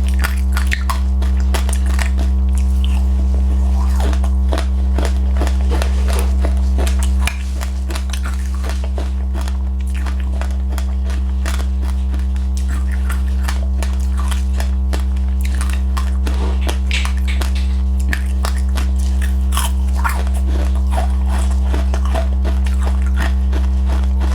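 Close-up crunching and chewing of passionfruit pulp with its seeds and sesame seeds: many short crisp crunches and clicks. Under them runs a loud steady low hum that drops in level about seven seconds in.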